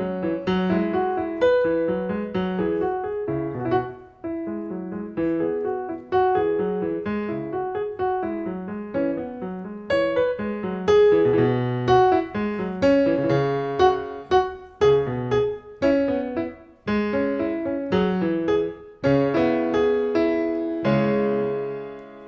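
Solo piano music: a steady, repeating pattern of separate notes, ending on a held chord that fades out near the end.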